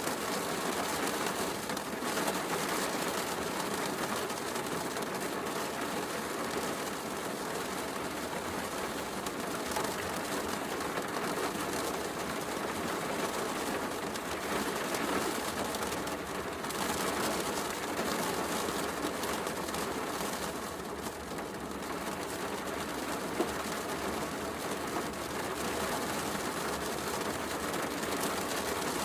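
Steady heavy rain mixed with a crackling wood fire, with one sharper pop about 23 seconds in.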